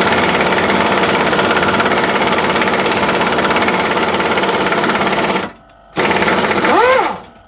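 Pneumatic air tool running with a rapid hammering rattle. It stops briefly, then runs again and spins up and down in a short rising-and-falling whine just before it cuts off.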